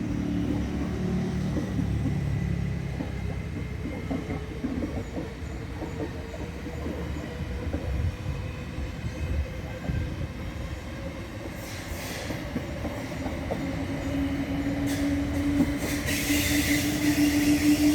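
Train running past: low rumble with irregular clatter of wheels on the rails. A steady hum and a hiss build up in the last few seconds.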